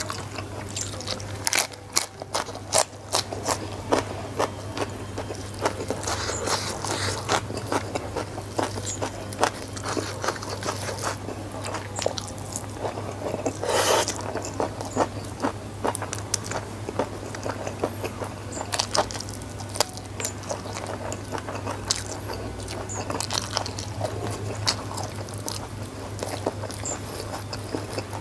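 Close-miked eating by hand: many crisp crunches and chewing sounds from raw vegetables and fried food, with fingers scraping food in a stone mortar of sambal. A steady low hum runs underneath.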